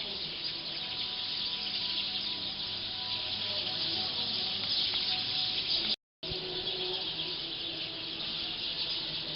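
Large flock of black birds chattering at their roost tree, a dense, continuous din of many overlapping chirps and calls. The sound drops out completely for a split second about six seconds in.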